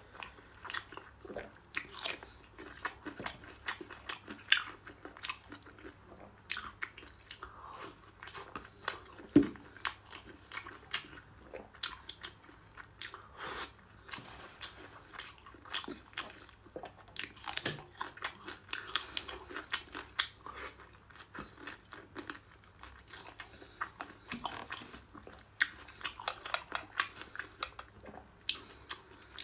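A person biting and chewing saucy abalone meat, a steady run of short, wet clicking mouth sounds, with one louder thump about nine seconds in.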